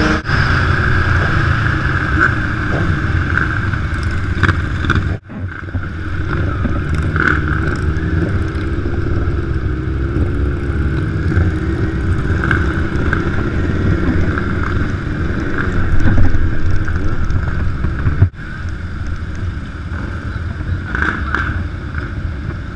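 Big motorcycle engines running while riding on the road, with some wind noise. The sound cuts off abruptly twice and resumes, about five seconds in and again near eighteen seconds.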